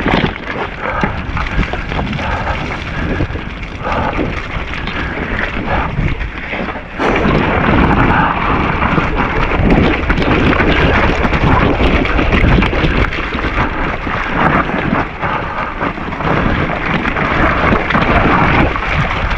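Nukeproof Giga mountain bike ridden fast down a wet, rough trail: tyre noise and rattling and knocking from the bike over the ground, with wind buffeting the action camera's microphone. It gets louder and busier about seven seconds in.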